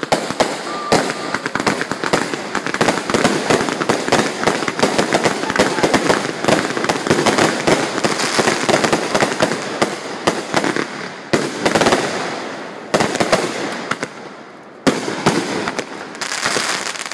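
A 500-shot consumer fireworks cake firing: rapid, almost continuous shots and crackling bursts, with short lulls about eleven, thirteen and fifteen seconds in, each followed by a fresh volley.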